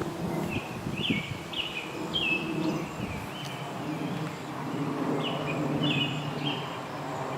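A bird chirping over and over in short, quickly falling notes, about two a second with a pause in the middle, over a low steady outdoor background.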